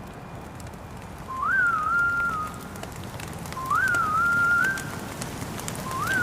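A short whistled melody, a quick rise then a few level steps, heard three times, over a steady hiss of rain with scattered drop ticks.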